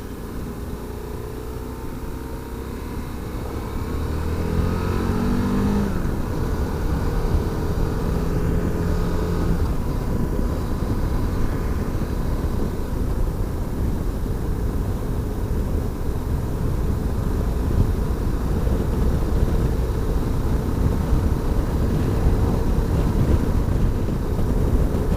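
Aprilia motorcycle engine heard from the rider's position, picking up speed about four to six seconds in, then cruising steadily under a constant rush of noise.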